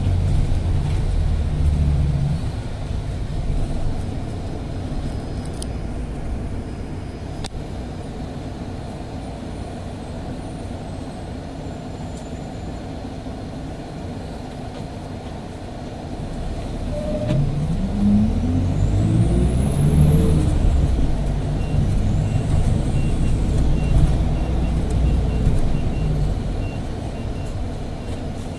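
City bus engine heard from inside the cabin, running with a low rumble. About two-thirds of the way in it revs up in rising steps as the bus accelerates away, and it is louder for several seconds.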